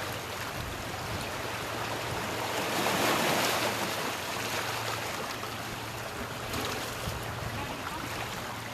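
Sea surf washing onto the shore: a steady rush of water noise that swells to its loudest about three seconds in.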